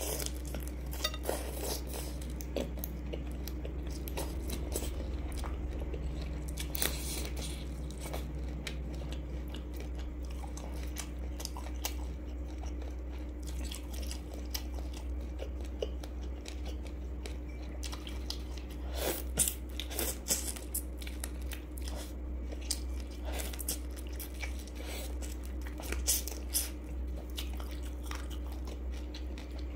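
Mouth sounds of chewing and biting into giant freshwater prawn meat, with scattered short wet clicks and crunches, over a steady low hum.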